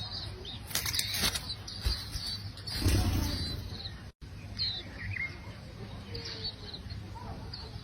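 Small birds chirping in short, high, scattered calls, with two louder bursts of rustling noise about one and three seconds in.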